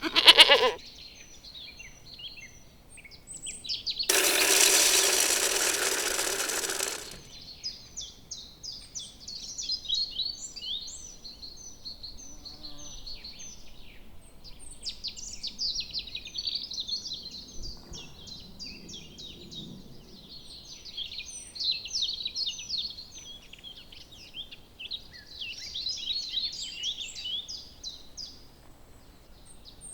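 Many small birds twittering continuously in short chirps. A loud short call sounds right at the start, and about four seconds in a loud, harsh sound lasts about three seconds.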